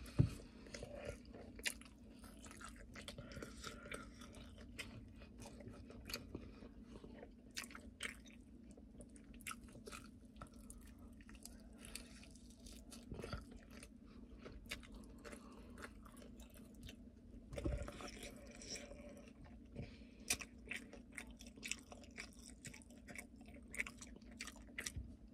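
A person chewing and biting into chicken wings, close to the microphone, with many small clicks throughout.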